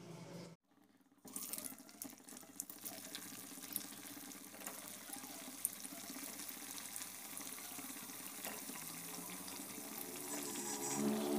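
Sabudana vada patties deep-frying in hot oil, a steady sizzle with scattered crackles and pops. It starts after a brief silent gap about a second in.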